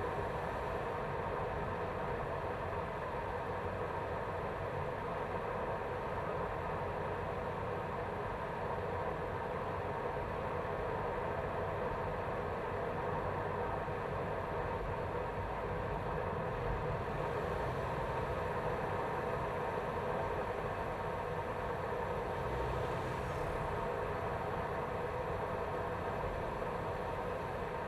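BMW B48 2.0-litre turbocharged four-cylinder engine running at a steady speed, heard from inside the engine bay, with no revving.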